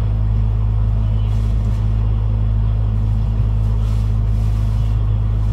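PESA 620M diesel railcar under way, a steady low drone and rumble with a constant hum running through it, heard on board.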